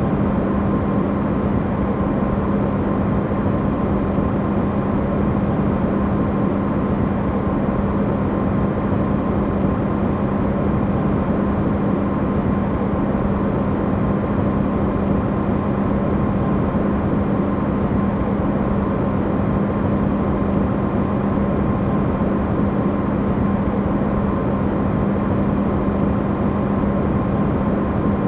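Amplified running sound of an Electrolux side-by-side refrigerator: a steady, low, even hum with a tone around 200 Hz and fainter higher tones over a noise hiss, unchanging throughout.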